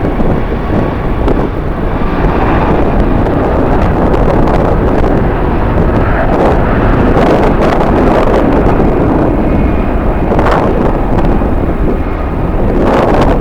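Strong wind buffeting the microphone in loud, uneven gusts, with jet airliner engine noise mixed in underneath.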